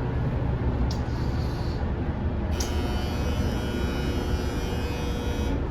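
A steady low hum in an elevator car aboard a ferry. A click comes about a second in, then a whirring with a faint high whine from about halfway that cuts off suddenly near the end.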